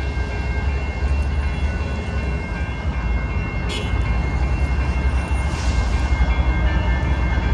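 Union Pacific freight train approaching, its lead GE ES44AC diesel locomotive giving a steady deep rumble that grows louder near the end. A brief click about halfway through.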